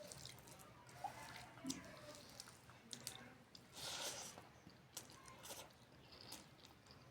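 Faint chewing and mouth sounds of a person eating rice with cabbage curry, with scattered small clicks and a louder rustling noise about four seconds in.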